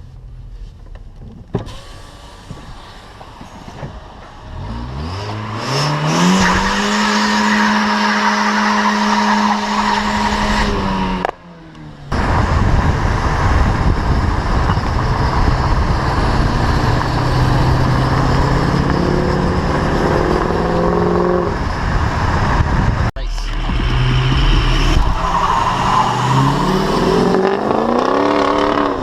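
A car engine being revved hard for a burnout, climbing quickly and holding at high revs over a heavy hiss of spinning tyres. The sound breaks off abruptly twice and picks up again with the engine at lower, steadier revs, then it revs up once more near the end.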